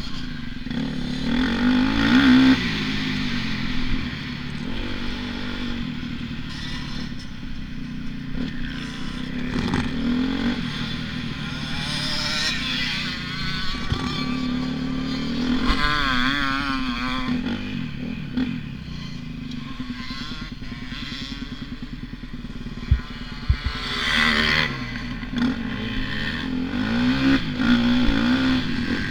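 Motocross dirt bike engine being ridden hard, its pitch rising and falling again and again as the throttle opens and closes, with two sharp knocks about two-thirds of the way through.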